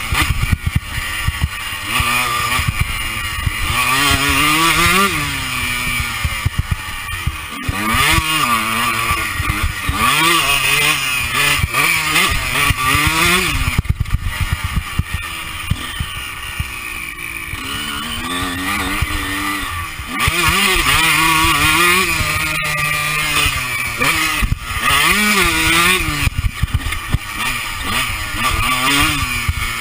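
Honda CR125's 125cc two-stroke single-cylinder engine revving hard and backing off over and over as the dirt bike is ridden around a motocross track, heard from the rider's chest. The pitch climbs and drops repeatedly, with a quieter stretch about midway.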